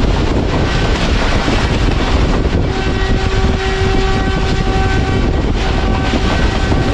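Passenger train running along the track with a loud, steady rumble of wheels and carriages, and a train horn sounding a long, steady note from a little before halfway in, lasting about four seconds.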